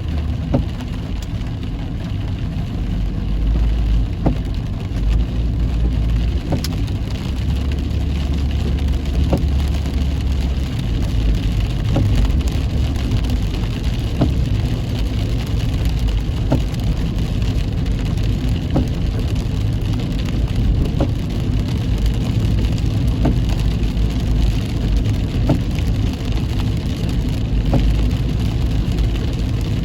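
Heavy rain pelting a moving car, with scattered sharp raindrop ticks over the steady low rumble of the car driving on a wet road.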